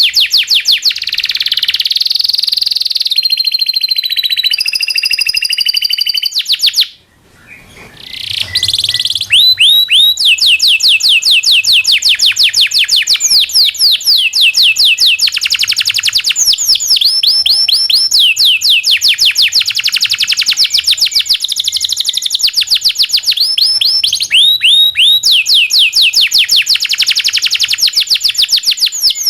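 Domestic canary singing a long rolling song of fast, repeated down-sweeping chirps and trills, with a brief pause about seven seconds in.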